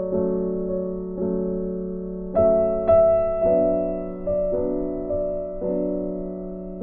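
Slow, gentle piano music: soft chords struck every half second to a second, each left to ring and fade.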